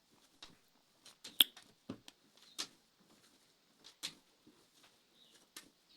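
Plastic food container and lid handled and pressed shut: scattered light clicks and taps at irregular intervals, the sharpest snap about one and a half seconds in.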